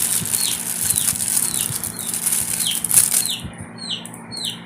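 A small bird chirping over and over: short calls that slide downward, two to three a second. Under them is a high rustling hiss that stops about three seconds in.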